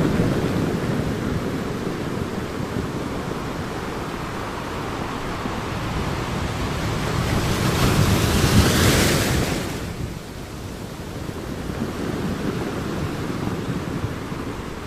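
Ocean waves breaking on a beach: a continuous surf wash, with one wave swelling to a hissing crash past the middle and then falling off to a quieter wash.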